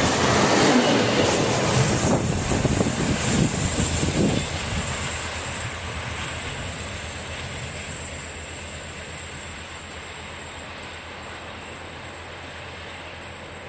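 HŽ series 7122 diesel railcar passing close by, its wheels clattering over the rail joints. About four seconds in the sound drops to a fainter, steady running noise with a low engine hum that fades as the railcar draws away.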